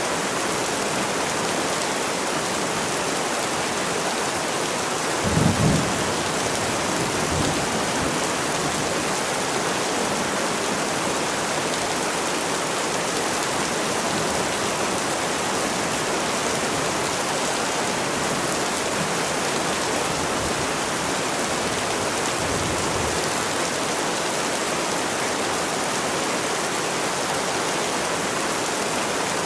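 Steady rain falling, with a low rumble of thunder about five seconds in and fainter rumbles a couple of times later.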